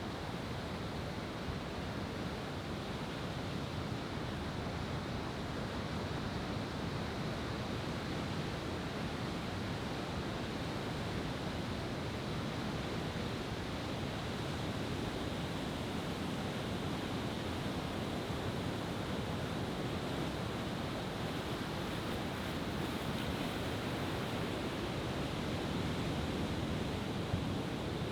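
Steady wash of ocean surf, with no firework bangs.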